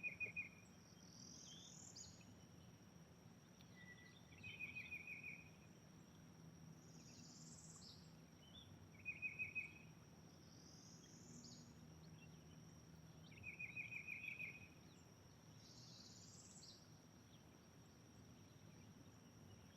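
Faint outdoor ambience of insects: a steady high-pitched drone throughout, with short rapid trills repeating about every four to five seconds.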